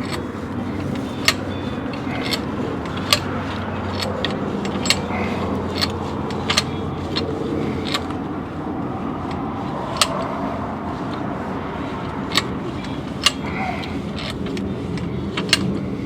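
A power drill boring slowly through the steel steering knuckle for the high steer conversion, running steadily with about ten scattered sharp metallic clicks.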